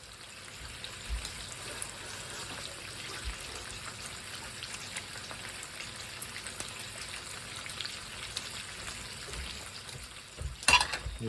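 Water running steadily from a kitchen tap, an even splashing hiss.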